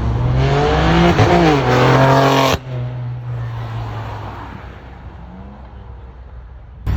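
Car engine accelerating hard, its pitch climbing and then dropping at a gear shift about a second in. The engine sound then fades away.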